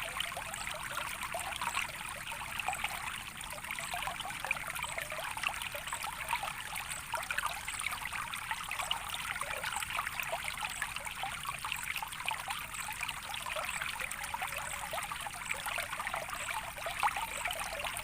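Shallow running water trickling steadily, with many small quick splashes and bubbles over an even rush.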